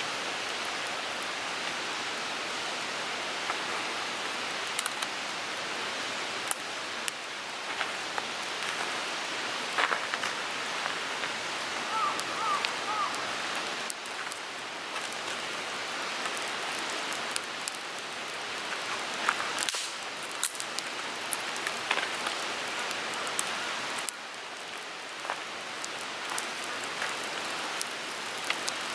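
Wood fire burning in a Picogrill 398 fire pit: a steady hiss with frequent sharp crackles and pops from the burning wood.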